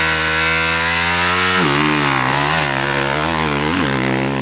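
Dirt bike engine running at high revs, its pitch creeping up, then dropping sharply about a second and a half in and wavering up and down with the throttle.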